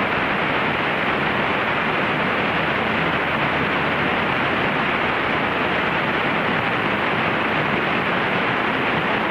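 Mooney light aircraft cockpit noise on final approach: its engine and the rushing airflow make an even, steady hiss with a faint low hum underneath, unchanging throughout.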